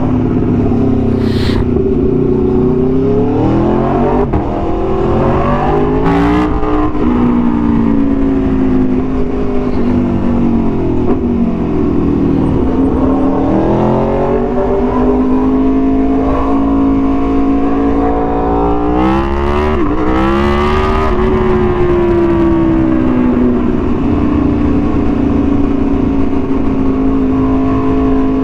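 Aprilia Tuono V4 1100's V4 engine through an SC-Project exhaust, loud throughout, its revs climbing and dropping back several times as the bike accelerates and eases off.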